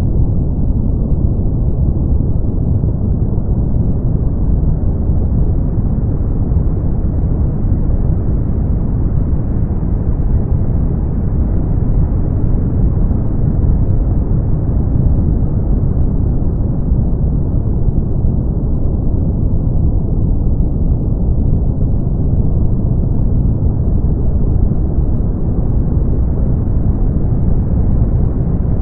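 Brown noise: a steady deep rumbling hiss with most of its energy in the bass, dull and without any treble, its brightness drifting slightly up and down over the seconds.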